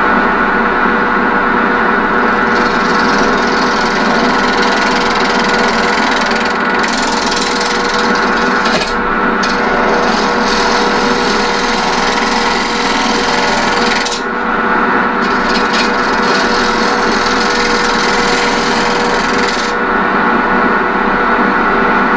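Union Jubilee wood lathe running with a steady hum while a turning tool cuts across the end of the spinning workpiece, facing it off. The rough hiss of the cut comes and goes with short breaks a few times.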